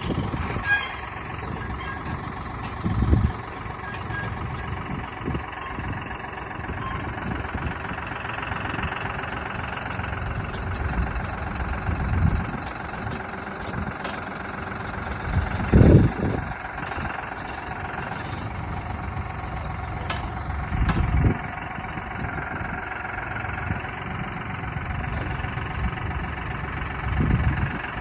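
An engine idling steadily, with a few short low thumps over it, the loudest about halfway through.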